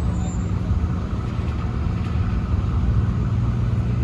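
Steady low diesel engine rumble aboard a car ferry under way, a constant hum with no change in pitch.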